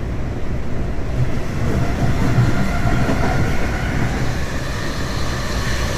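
Passenger train running at speed, heard from inside the car: a steady rumble of wheels on the rails with clickety-clack. A faint high whine comes in about two seconds in.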